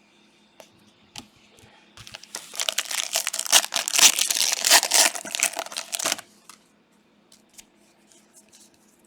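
Plastic trading-card pack wrapper being torn open and crinkled: a dense crackling run lasting about four seconds, with a few light clicks before and after.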